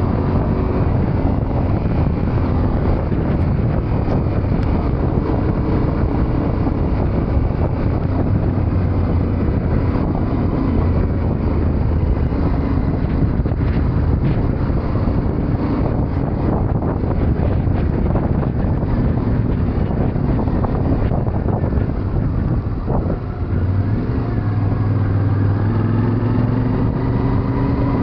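Yamaha Ténéré 700's parallel-twin engine running steadily under way, heard from on the bike with wind noise on the microphone. Near the end the level dips briefly, then the engine note comes back lower and stronger.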